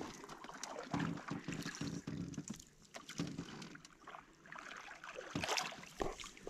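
A canoe being launched or paddled: irregular water splashes and short knocks on the hull, with a little wind.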